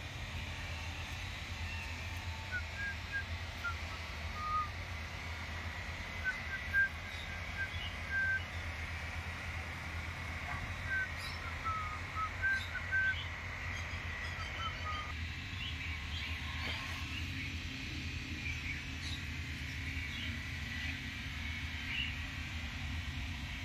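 Small birds chirping: short, high chirps and whistled notes in quick runs, higher-pitched ones after about fifteen seconds, over a steady low rumble.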